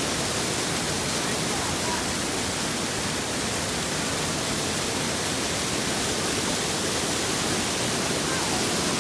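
Waterfall: the steady rush of falling water close by, an even hiss with no breaks.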